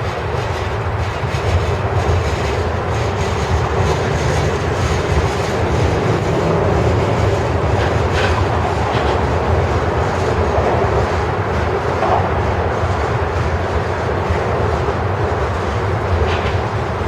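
Norfolk Southern grain train rolling past: steady rumble of steel wheels on the rails, with occasional clacks.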